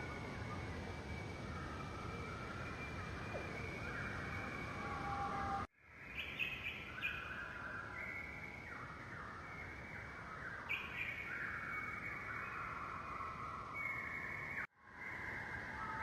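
Tropical forest ambience with several birds calling at once in overlapping whistled notes, over a steady background hiss. The sound cuts out briefly and fades back in twice, about six and fifteen seconds in.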